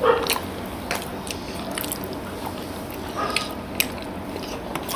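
Wet chewing and scattered mouth clicks of people eating soft, syrup-soaked Bengali sweets (rasgulla and pantua).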